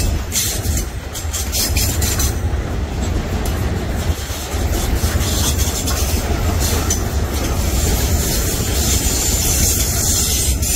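A train rolling past, its wagons making a steady loud rumble with repeated clacks of the wheels over the rail joints.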